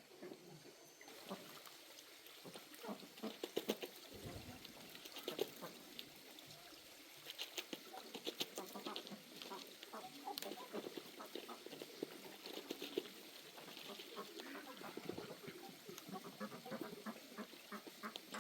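Farmyard poultry, ducks and chickens, calling in short, uneven bursts.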